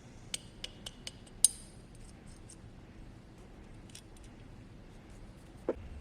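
Light metallic clicks and clinks of small metal parts or tools being handled: a quick run of about six sharp clicks in the first second and a half, the last the loudest, then a few faint ticks and a duller knock near the end.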